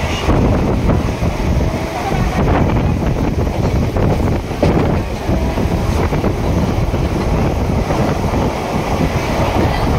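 Electric train running along the track at speed, heard from on board: a steady rumble and rattle of the running train with wind buffeting the microphone.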